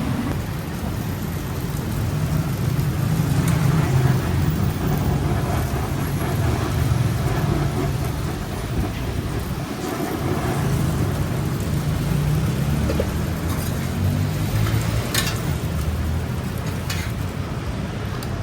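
Steady rumble of road traffic passing, with two short sharp clicks near the end.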